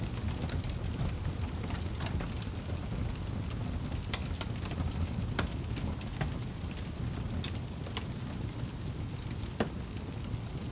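Wood fire crackling in a fireplace: scattered sharp pops and snaps of burning firewood over a steady low rumble of the flames.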